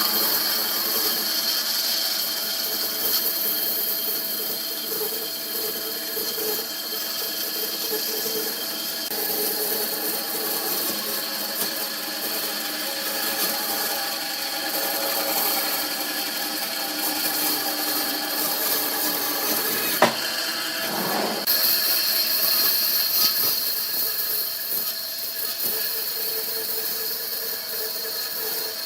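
Woodworking power tool running steadily, its motor noise carrying many steady tones, with one sharp click about two-thirds of the way through.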